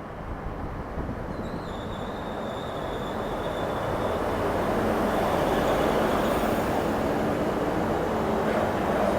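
Hunter-class diesel railcar pulling into a station platform, its engine and wheels growing louder as it draws near. A thin, high, steady squeal sounds from about a second and a half in until about four seconds in.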